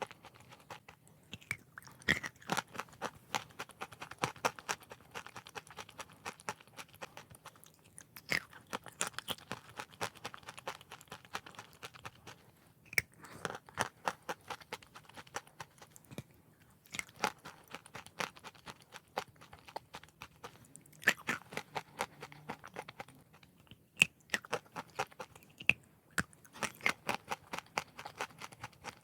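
Hard chalk being bitten and chewed: runs of dry crunching in bouts of a few seconds, separated by short pauses between bites.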